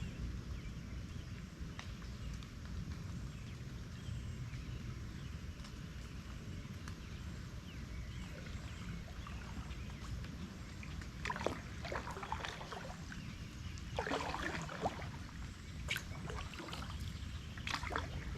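Kayak paddle splashing and dripping in lake water, several splashes in the second half, over a steady low rumble.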